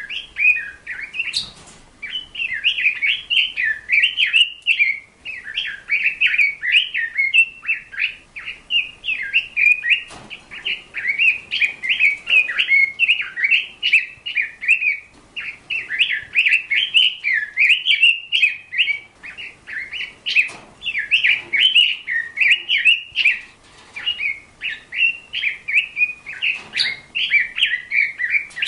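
A bird twittering in a rapid, near-continuous run of short high chirps, broken by a few brief pauses.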